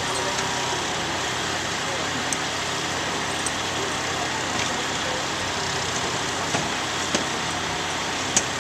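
A vehicle engine running steadily under a constant roar of noise, with faint voices and a few short sharp clicks.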